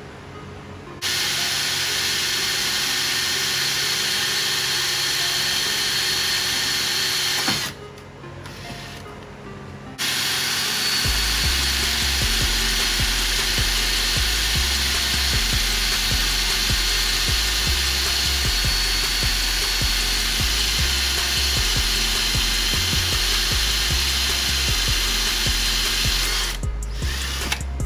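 A power tool runs steadily for about six seconds, stops for a couple of seconds, then runs again for most of the rest. Background music with a bass line plays underneath.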